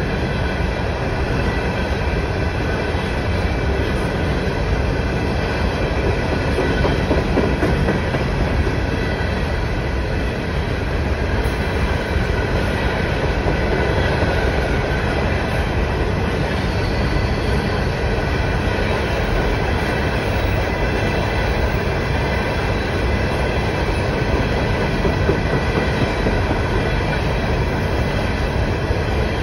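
Norfolk Southern freight train of hopper cars rolling steadily past: a constant rumble of wheels on rail, with thin, steady high squealing tones over it.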